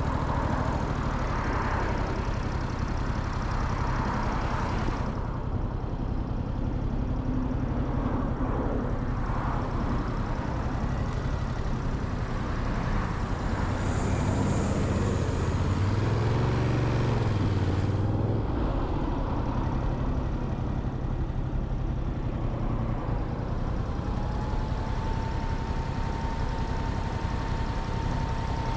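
Motorcycle engine running at low speed in city traffic, with road noise. A heavier vehicle's engine swells loud in the middle, and a steady high whine comes in about two-thirds of the way through.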